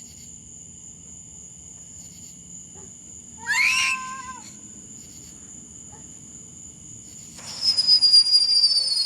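Ground firework going off about seven and a half seconds in, with loud crackling and several whistles falling in pitch. Before it, crickets trill steadily, and a brief high-pitched cry comes about midway.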